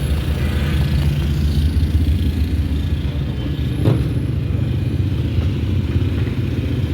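Steady low rumble of a road vehicle, with a single short knock about four seconds in.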